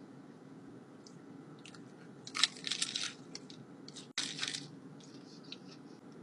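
Biting into a crispy taco with a fried flour tortilla shell: two loud crunches, about two seconds in and again about four seconds in, with small crackles between.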